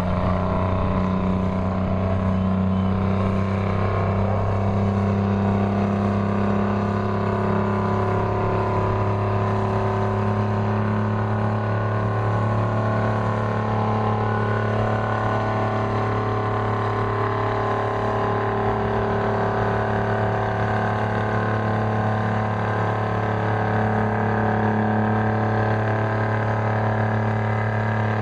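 Farm tractor engine running steadily at a near-constant pitch.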